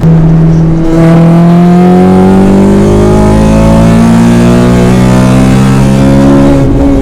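Honda Civic Type R's K20 four-cylinder engine accelerating hard, its pitch climbing steadily through the revs, then dropping suddenly near the end at an upshift and starting to climb again.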